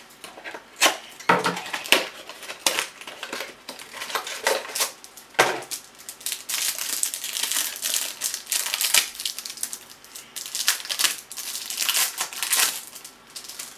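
Packaging crinkling and crackling in irregular bursts as a pack of basketball trading cards is torn open and unwrapped by hand. The rustling is densest around the middle and again near the end.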